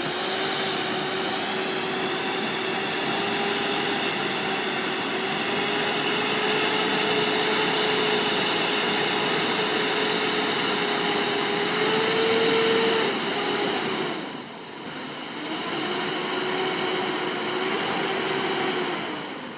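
Roll-off refuse truck running with a steady mechanical whine that climbs slightly, drops away briefly about two-thirds of the way through, then comes back and fades near the end.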